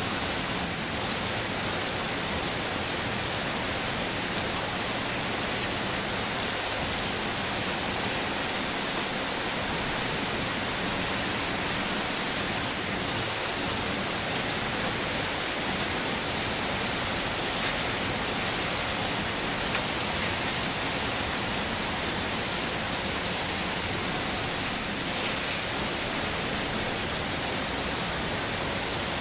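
Heavy rain as a steady, even hiss, with a brief dip in level about every twelve seconds.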